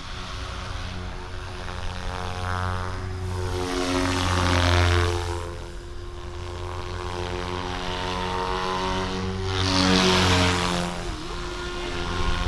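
GooSky RS4 400-size direct-drive electric RC helicopter in flight: its brushless motor and rotor blades make a steady pitched whine and buzz. The sound swells louder twice, about four and ten seconds in, and its pitch shifts each time as it passes close.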